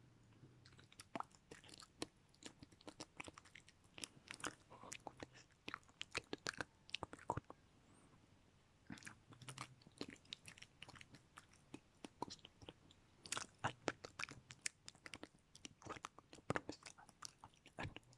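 Close-miked ASMR mouth sounds: quick runs of wet clicks and smacks from the tongue and lips, with a short pause a little before the middle.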